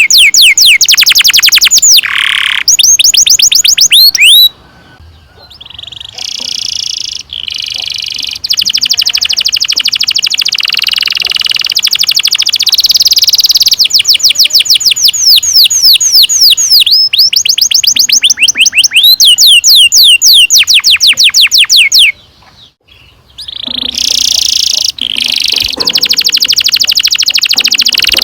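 Domestic canary singing long rolled trills: fast runs of many quick repeated falling notes, changing from one roll to the next. The song breaks off briefly twice, a few seconds in and about three-quarters through.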